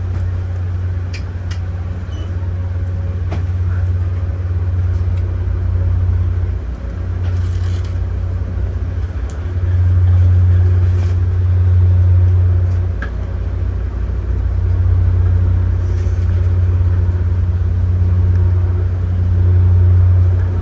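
Low, steady vehicle rumble that swells and eases a few times, with a few faint clicks over it.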